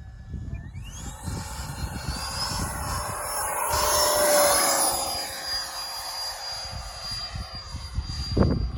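Electric ducted fan of a 6S outrunner-powered Freewing F-22 Raptor model jet whining, climbing in pitch over the first couple of seconds as the throttle comes up, then holding steady, loudest about halfway through. Wind buffets the microphone throughout, with a stronger gust near the end.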